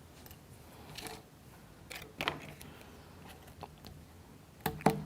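A few faint clicks and taps of small wooden model-kit parts and toothpicks being handled, with the loudest taps a little past two seconds in and near the end.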